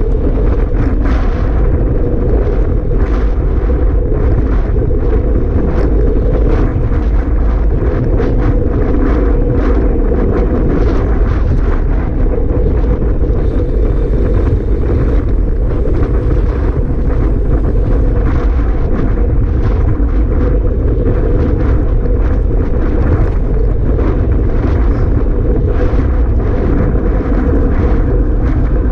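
Strong wind blowing across the microphone: a loud, steady low rumble with constant crackling buffets and no let-up.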